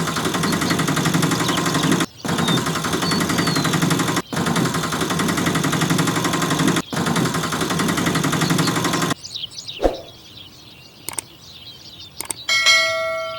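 A rapid rattling, engine-like running sound, broken by three brief dropouts, stops abruptly about nine seconds in. Faint bird chirps follow, and a single ringing ding sounds near the end.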